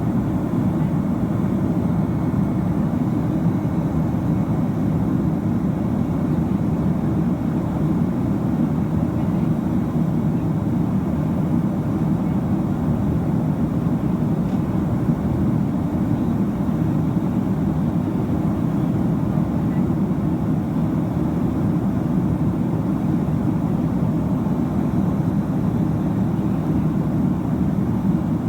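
Steady cabin roar of a Boeing 767-300ER airliner in flight, its jet engines and the rushing air heard from inside the cabin. Deep and unchanging throughout.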